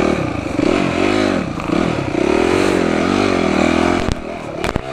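Dirt bike engine revving up and down repeatedly, the throttle opened and closed about once a second, with two sharp knocks near the end.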